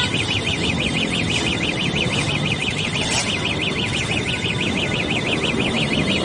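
Electronic alarm tone warbling rapidly up and down, about six times a second, over steady road and wind noise from a moving motorcycle.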